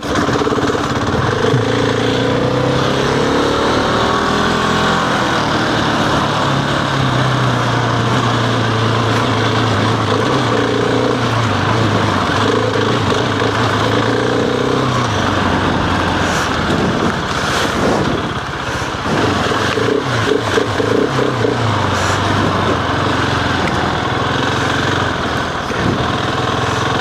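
Husqvarna 701's single-cylinder engine running as the motorcycle is ridden, its pitch rising and falling in steps with throttle and gear changes, over a steady rush of noise.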